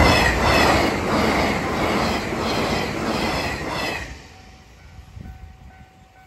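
JR West 381 series electric limited express train passing close at speed, its wheels clattering over rail joints about once every half second. The train sound stops abruptly about four seconds in, leaving a faint level crossing warning bell ringing.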